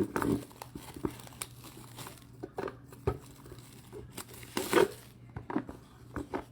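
Trading card box packaging being handled: irregular crinkling and tearing rustles of wrapper, with a louder rustle about three-quarters of the way through.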